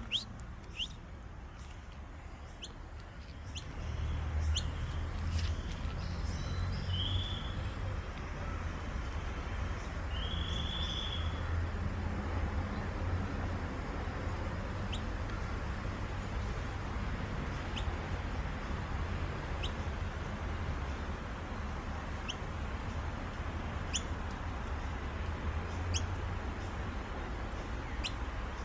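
Noisy miner fledgling calling: short, high chirps repeated every second or two, with a couple of longer notes early on, over a steady low rumble.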